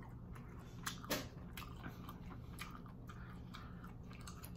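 A person chewing food close to the microphone: faint, wet mouth clicks, with two sharper clicks about a second in.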